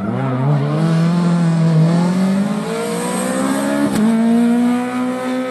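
Rally car engine accelerating hard, its note climbing steadily, with a quick gear change about four seconds in before it pulls on higher.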